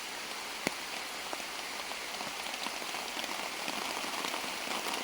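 Steady rain falling, a dense patter of many small drop ticks, with one sharper tick about two-thirds of a second in.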